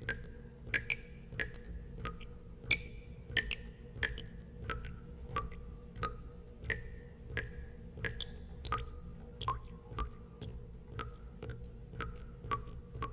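Water drops falling one after another into water, each a sharp click with a short pitched plink, about two a second at slightly irregular intervals and varying pitch, over a faint steady low hum.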